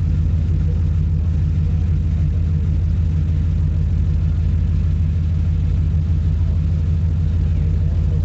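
Truck engine running steadily: a low, even drone.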